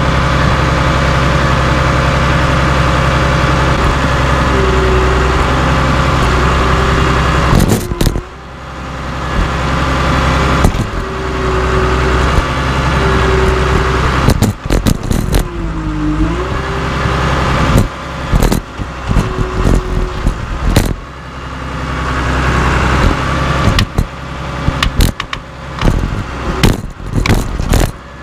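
Caterpillar D3C LGP bulldozer's diesel engine running under load, with a whining tone that comes and goes. From about eight seconds in there are many sharp metallic clanks and rattles as the dozer crushes steel scrap wheels.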